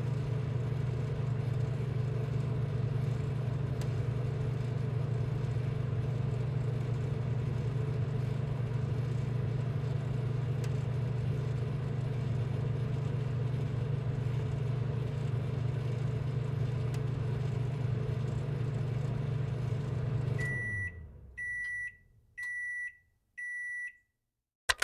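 A steady, low machine hum or rumble with a faint steady tone in it, fading out after about twenty seconds. Four short, high electronic beeps follow in an even rhythm, then silence.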